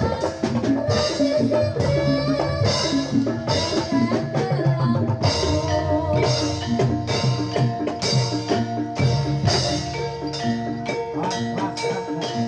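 Live gamelan music for a jathilan dance: drums and mallet-struck metallophones playing a busy, repeating pattern of struck notes.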